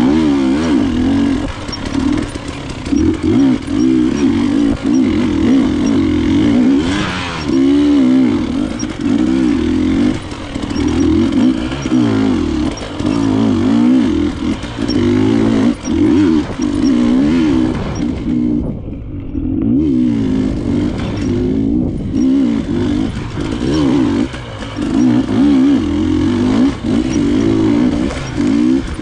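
KTM enduro motorcycle engine being ridden hard, its revs rising and falling constantly with the throttle. The sound briefly thins out twice, about two-thirds of the way through.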